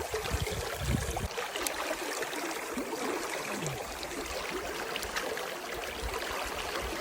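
Steady rush of flowing river water, with a few low bumps in the first second or so.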